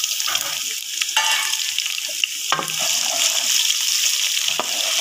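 Onions, green chillies and ginger-garlic paste sizzling in hot ghee in a metal pot while a wooden spoon stirs them. The spoon knocks against the pot twice, about halfway through and near the end.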